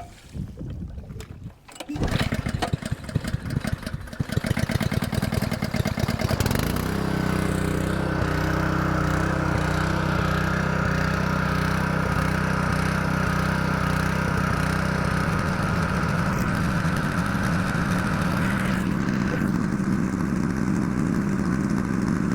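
Honda GX200 single-cylinder four-stroke engine on a 3-inch water pump, pull-started: it catches about two seconds in, runs unevenly for a few seconds, then settles into a steady run at speed while the freshly primed pump has not yet picked up water.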